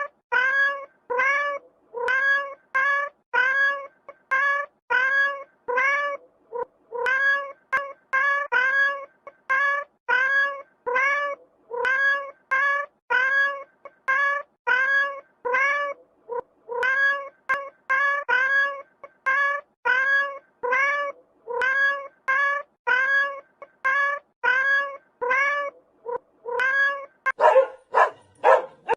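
A cat meowing over and over in short, even calls, about two a second. Near the end, sharper barks take over.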